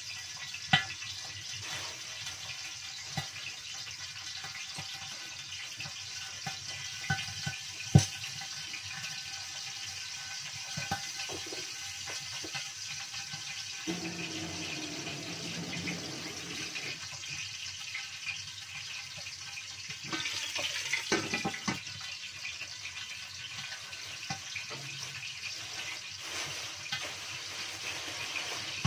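Bird's eye chillies frying in hot oil in a covered pan: a steady sizzle with scattered sharp pops and crackles. The loudest pops come about a second in and about eight seconds in, with a busier run of crackling around twenty seconds in.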